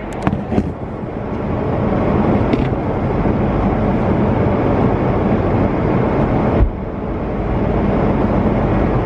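Rear-wheel-drive car's engine revving hard while its tyres spin in snow without getting it moving. The revs build over the first couple of seconds, drop suddenly about two-thirds of the way through, then climb again.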